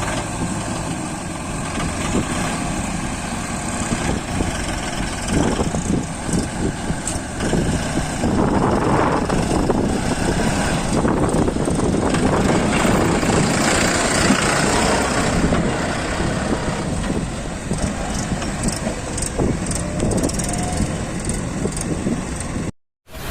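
Tractor engine running steadily, cutting off abruptly near the end.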